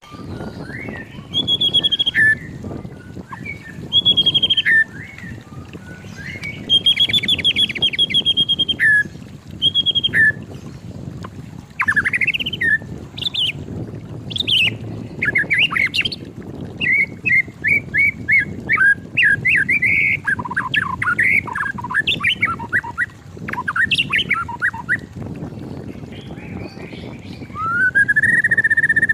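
White-rumped shama singing, a varied run of loud whistled phrases, fast trills and rattling notes with short pauses between them. Near the end a long, steady whistle begins and is held.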